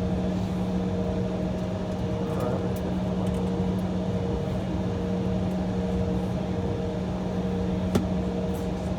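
Steady cabin drone of an Embraer E175 airliner waiting on the taxiway: a constant low hum with fainter steady tones above it, from the aircraft's idling power and air-conditioning. A single sharp click about eight seconds in.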